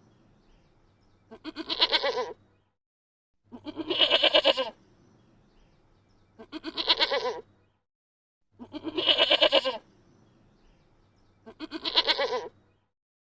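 A bleating farm animal calling five times, about every two and a half seconds. Each bleat lasts about a second and has a wavering tremble.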